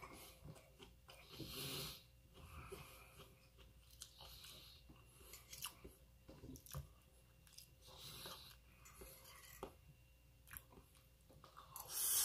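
A person chewing a mouthful of soft food, rice and shrimp-stuffed tofu, close to the microphone, with scattered small clicks and mouth noises. There is a louder burst of noise near the end.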